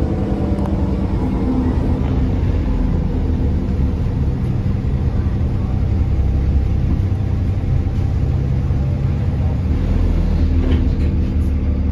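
Six-cylinder Cummins diesel engine of an ADL Enviro400 Trident double-decker bus running, a steady low drone whose pitch and strength shift a little a few times as the engine speed changes.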